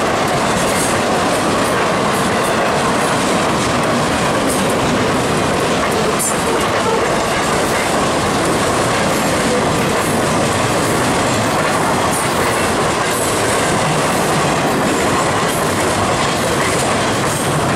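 Freight train of container flatcars rolling past at speed: a steady, loud noise of wheels on rail with scattered clicks.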